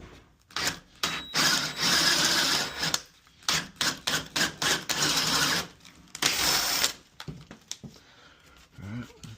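Power drill boring a 1-inch hole into the door jamb for a deadbolt's bolt, run in several bursts of one to two seconds each. It stops about seven seconds in.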